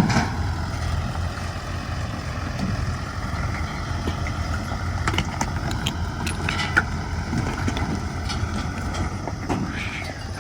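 Tractor diesel engine running steadily, with scattered short rattles and clanks over it.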